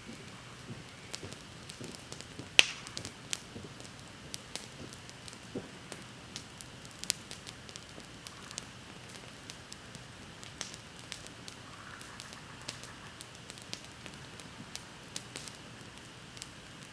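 Wood bonfire crackling, with irregular sharp pops over a soft steady hiss; one loud pop comes about two and a half seconds in.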